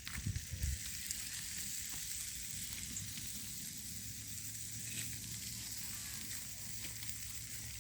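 Meat wrapped in aluminium foil, just pulled from a campfire, sizzling steadily in its hot juices, with a few soft knocks at the start as the packet is handled.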